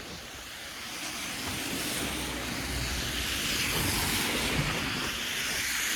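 Street traffic going by: a hiss of tyres with a low engine rumble, swelling louder over the first few seconds as a vehicle approaches.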